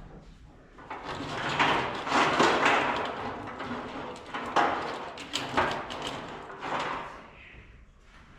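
Wiring harness being pulled and worked through the engine bay: a run of scraping and rubbing, with a few sharper knocks as the harness loom snags and drags against the metal.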